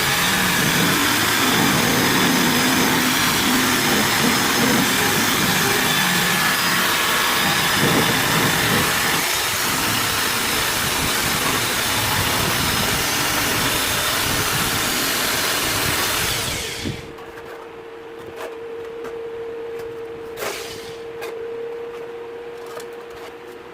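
Electric power tool running steadily, likely rust-removal work on the saw, then switched off about 17 seconds in. A quieter steady hum and a few light clicks follow.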